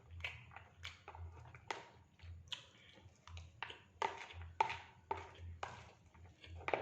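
Close-up eating sounds: irregular wet chewing clicks and smacks, several a second, with a few light clinks of cutlery on a plate.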